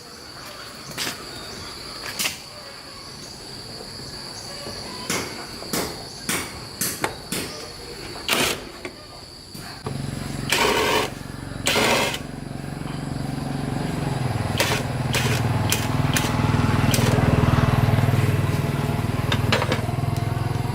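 Scattered metallic clicks and knocks of hand tools. About halfway through, an engine starts and runs steadily, growing louder toward the end.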